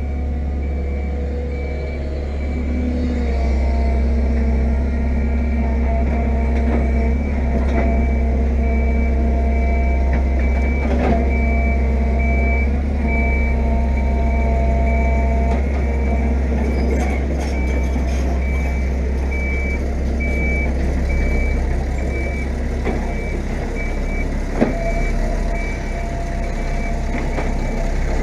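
Fiat-Hitachi EX165 crawler excavator's diesel engine running steadily under digging load, with an alarm beeping in a regular on-off pattern throughout. A few knocks sound over it, the sharpest about 25 seconds in.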